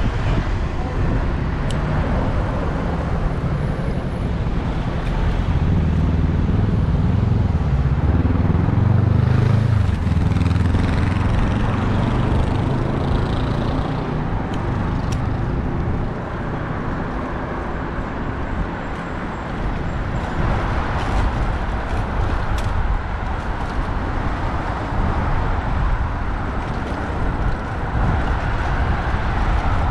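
City road traffic heard from a bicycle-mounted camera: a steady rumble of passing vehicles, with a heavy vehicle's engine loudest from about six to twelve seconds in.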